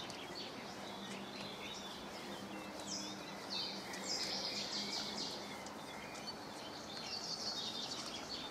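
Small birds chirping and twittering in quick, high trills that come and go, over a faint steady low hum.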